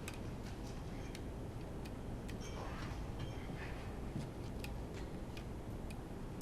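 Light, irregular clicks and taps of hand tools and small metal parts being handled during engine disassembly, over a steady low hum.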